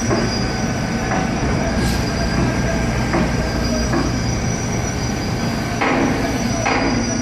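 Concrete pump truck running: a steady engine drone with a high, constant whine, and a regular surge about once a second, stronger near the end, as the pump strokes.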